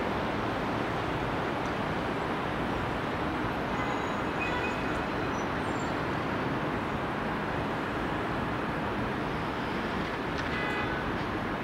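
A distant freight train rolls along the line, a steady rumble blended with the even background noise around it. Two short, faint high tones come through, about four and about ten seconds in.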